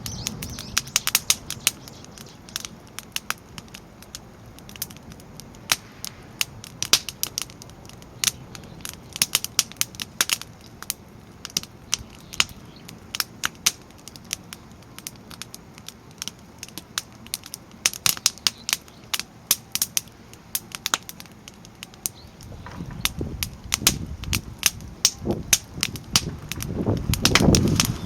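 Split firewood burning in a fire stand, crackling with sharp pops at irregular intervals. A low rushing sound builds over the last few seconds.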